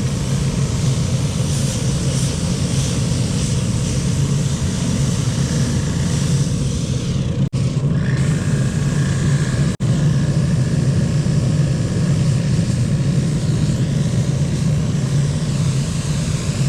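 Hotsy 550B hot-water pressure washer running with its pump motor on and its fuel-fired burner lit: a steady roar over a low hum. The sound drops out for a moment twice around the middle.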